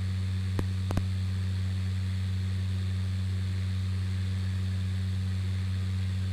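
Steady low drone of the Cessna 208 Caravan's turboprop engine and propeller in climb, heard through the cockpit intercom with a faint hiss. Two short clicks come just under a second in.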